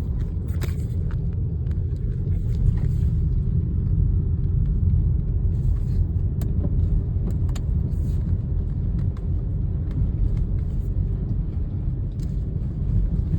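A car being driven, heard from inside the cabin: a steady low rumble of engine and road noise, with occasional faint clicks.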